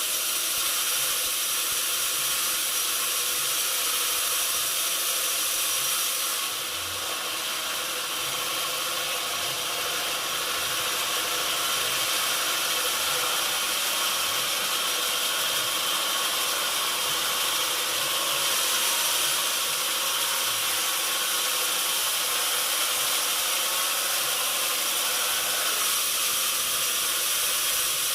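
Sawmill machinery running steadily with a continuous high hiss and whine, dipping briefly about six seconds in.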